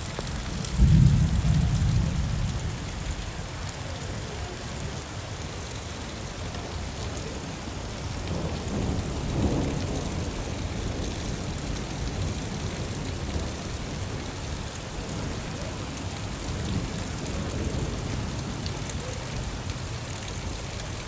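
Steady rain falling, with a loud rumble of thunder about a second in that fades over a couple of seconds, and softer rolls of thunder about midway and again later.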